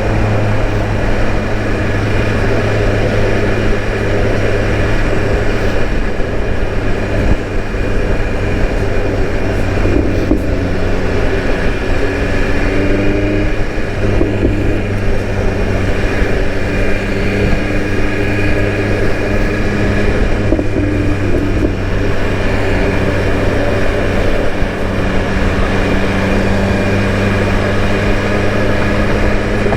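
BMW S1000RR inline-four engine running at a steady cruise while riding, a continuous steady drone.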